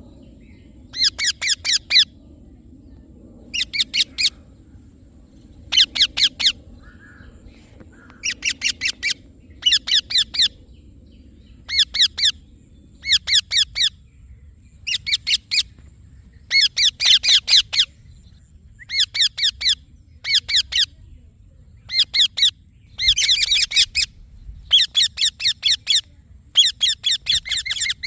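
Indian ringneck parakeet (rose-ringed parakeet) calling in short volleys of four to eight rapid, high-pitched notes, repeated about every one to two seconds.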